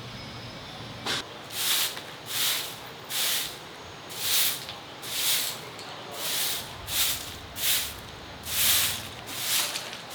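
A pressurised nozzle triggered over and over in short hissing bursts, about a dozen in quick succession, one roughly every 0.7 s.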